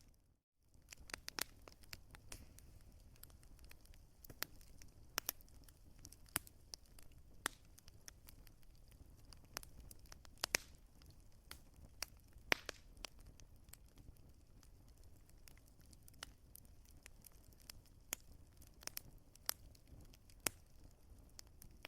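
Wood fire crackling: irregular sharp pops and snaps over a low, steady rumble, with a silent gap of about half a second at the very start.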